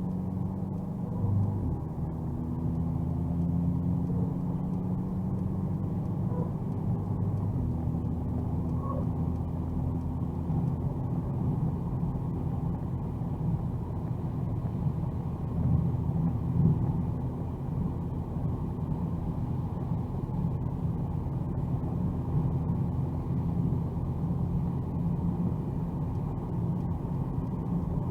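Mercedes-AMG A35's turbocharged 2.0-litre four-cylinder engine droning under steady road and tyre rumble at Autobahn speed, heard muffled inside the cabin. The engine note shifts pitch once, about seven seconds in.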